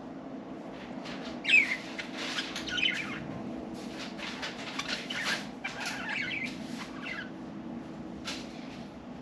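Pet budgerigars chirping in short warbles, with quick wing flutters and rustles, over a steady low hum; the chirps and flutters die away near the end.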